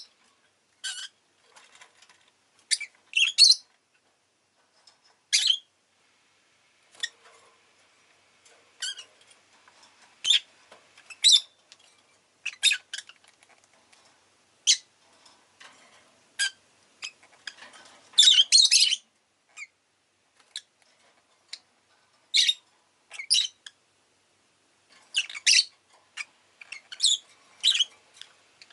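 Rosy-faced lovebird (peach-faced lovebird) giving short, shrill chirps and squawks at irregular intervals of a second or two, with a quick burst of calls about two-thirds of the way through.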